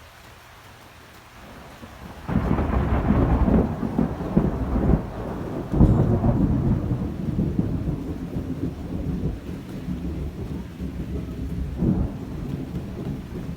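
Thunder: a loud clap breaks about two seconds in and rolls on as a long low rumble. A second crack comes a few seconds later and a smaller one near the end, and the rumble slowly fades.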